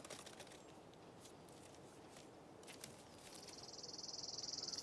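Quiet forest ambience with a few scattered faint clicks. About three seconds in, a high, fast-pulsing insect trill starts and grows louder.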